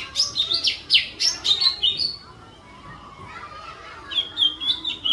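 Songbird singing a fast, dense run of sharp, downward-sweeping whistled notes that breaks off about two seconds in, then a quick string of short chirps near the end: 'tembakan' shot-like phrases from a birdsong masteran recording.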